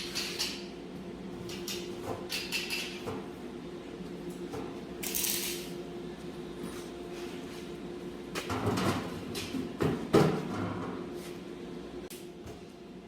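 Workshop sounds over a steady machine hum: scattered metallic clanks and knocks, loudest around eight to ten seconds in, with a short hiss about five seconds in.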